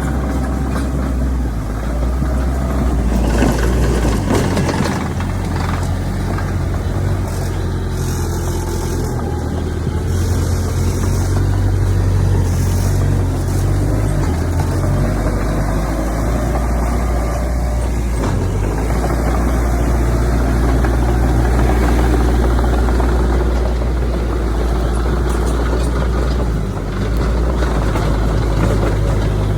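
Heavy diesel engine of earthmoving machinery running steadily with a deep, low drone, shifting a little in pitch and level as the load changes.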